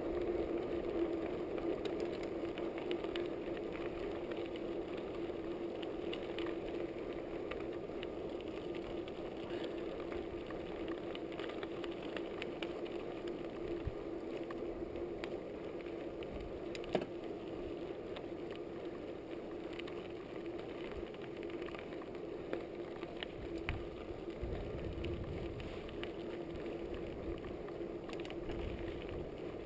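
Trek Fuel EX8 mountain bike being ridden: steady tyre and drivetrain noise with scattered rattles and clicks, and one sharp knock about halfway through.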